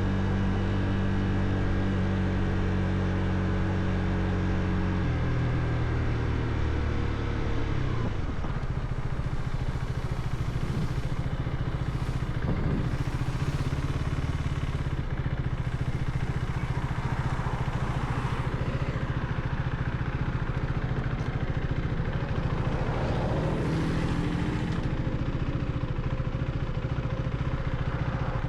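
Motorcycle engine running as the bike is ridden. The engine note drops about five seconds in as the bike slows, then settles into a steadier, lower running note.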